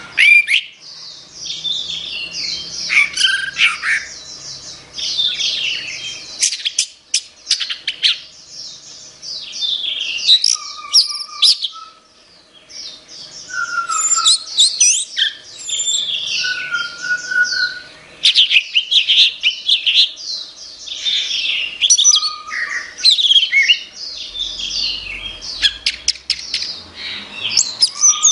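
Orange-headed thrush (anis merah) singing a long, fast run of varied whistled and chattering phrases, with a short pause about twelve seconds in.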